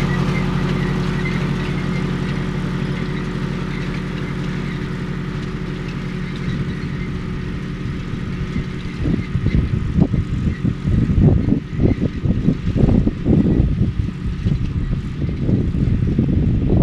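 Tractor diesel engine running at a steady speed and slowly fading. From about halfway through, wind buffets the microphone in irregular gusts.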